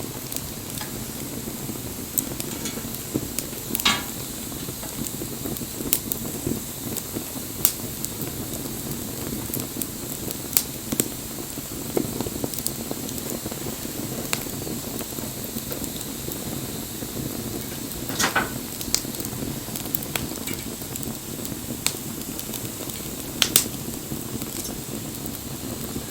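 Campfire burning with a steady low rush and scattered sharp crackles and pops, a few of them louder.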